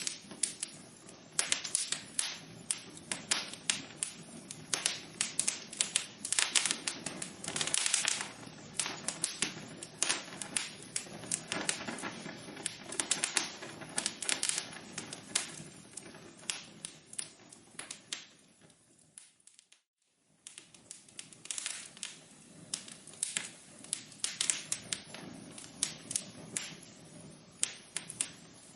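Wood fire crackling in a fireplace: dense, irregular snaps and pops over a soft hiss. About twenty seconds in, the sound fades out to silence for under a second, then the crackling resumes.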